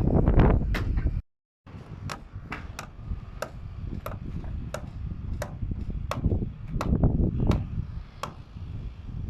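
Hammers striking timber formwork: a run of sharp, irregular knocks about once or twice a second. A loud low rumble comes first and cuts off about a second in.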